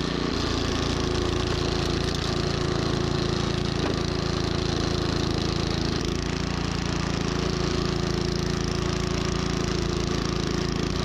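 Troy-Bilt snowblower running steadily under load: a constant engine drone with a dense rushing noise of snow being churned and thrown.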